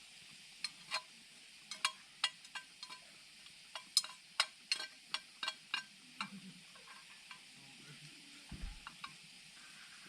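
About twenty sharp, irregular clicks and taps over a steady faint hiss. They come thickest in the first six seconds and then thin out, with a short low thump near the end.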